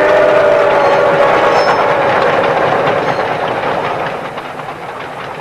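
Steam locomotive whistle chord trailing off, dropping slightly in pitch as it fades in the first two seconds, over the rolling rumble and clatter of a passing steam-hauled train that then fades away.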